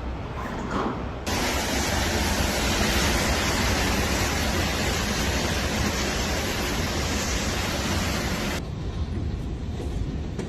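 Storm wind and heavy rain: a steady rushing noise over a low rumble of wind buffeting the microphone. About a second in, a much brighter hiss starts abruptly. It cuts off just as abruptly near the end, leaving only the low rumble.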